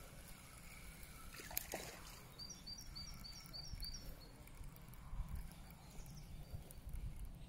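A bird gives a quick series of short, high chirps, about four a second, lasting under two seconds, over faint outdoor ambience with a low steady rumble. A single sharp knock comes about a second and a half in.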